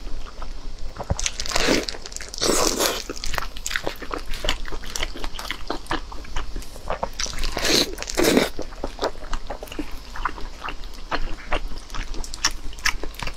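Close-miked eating: chewing with crisp, crunchy bites, and a few louder crunches around two seconds and eight seconds in.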